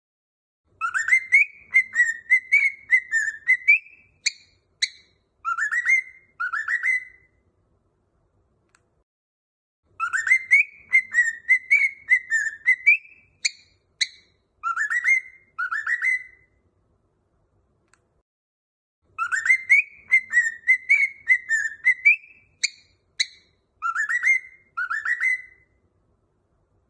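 Cockatiel whistling a short warbling song phrase, the identical phrase repeated three times with a few seconds of dead silence between, as a looped training recording.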